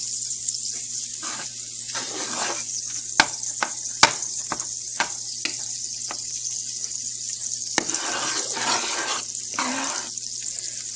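Butter melting and sizzling in a hot pan, a steady hiss, with scattered sharp clicks from a utensil against the pan.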